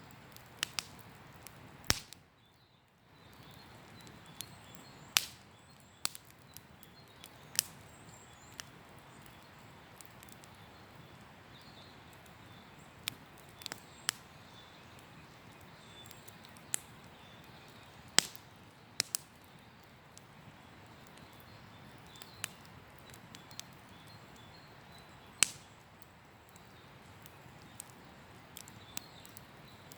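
Wood campfire crackling: irregular sharp pops and snaps from the burning wood, a few much louder than the rest, over a soft steady hiss.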